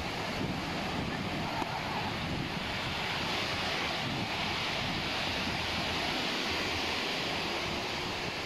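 Surf washing up on a sandy beach, a steady rush that swells around the middle, with wind buffeting the microphone.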